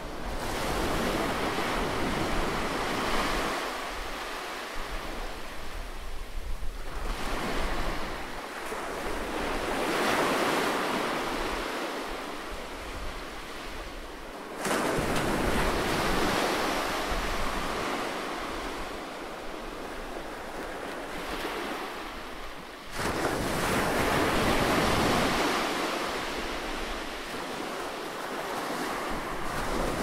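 Ocean surf breaking and washing up a sandy beach, the rushing noise swelling and ebbing every several seconds. Twice, about halfway through and again near the end, it jumps suddenly louder as a wave crashes.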